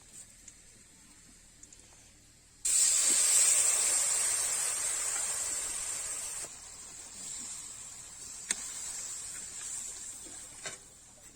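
Sudden loud sizzle about two and a half seconds in as something goes into a hot cooking pan. It fades over a few seconds to a lower, continuing sizzle, with a few light clicks near the end.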